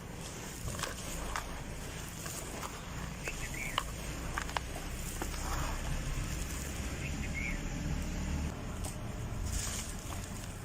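Dry, dusty red dirt crumbling and crunching: scattered crackles and small clicks over a low rumble.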